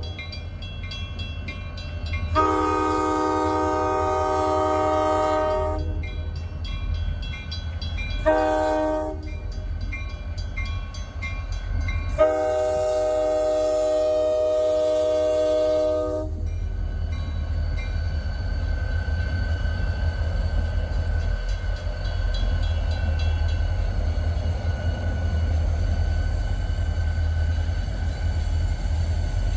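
A Wheeling & Lake Erie diesel locomotive sounds its chime horn in long, short and long blasts, closing a long-long-short-long grade-crossing signal. After the last blast the locomotive and its cars keep up a steady low rumble as they move.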